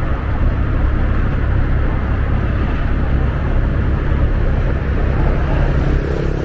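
Motor scooter riding along a road: a steady rumble of wind rushing over the helmet-mounted microphone, mixed with the small engine and road noise.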